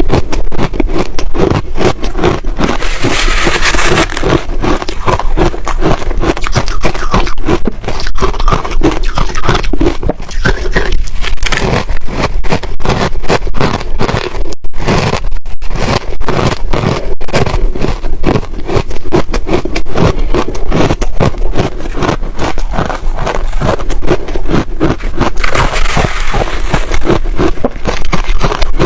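Ice being bitten and chewed close to the microphone: a dense run of rapid crunches and cracks, with a brief let-up about halfway through and brighter, crackly crunching near the start and near the end.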